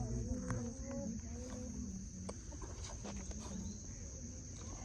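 Steady high-pitched drone of insects, likely crickets, with low, wavering voices of people on the boat in the first half.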